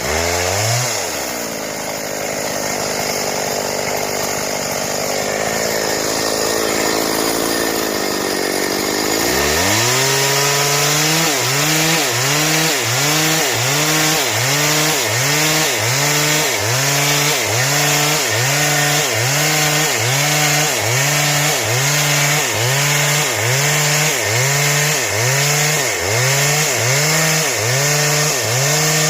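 Stihl chainsaw cutting wood into boards. For the first nine seconds or so there is a steady, hissing cutting sound. After that the engine note dips and climbs back in an even rhythm, about once a second.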